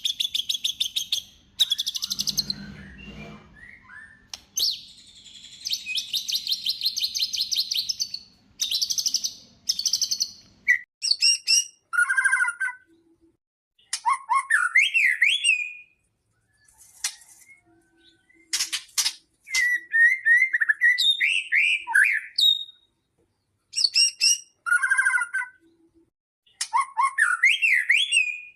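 White-rumped shama (murai batu) singing: dense, fast trills for the first ten seconds or so, then separate phrases of rising whistles and quick warbled notes with short pauses between them.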